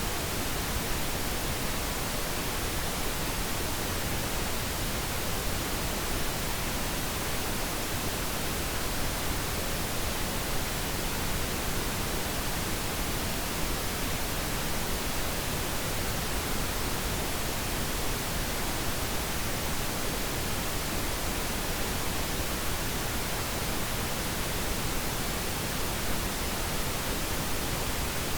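Steady pink noise: an even, unbroken hiss across all pitches, used as a sleep sound for babies.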